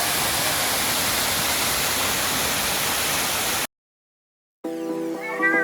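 Steady rushing roar of a waterfall, which cuts off abruptly a little over halfway through. After about a second of silence, background music begins near the end.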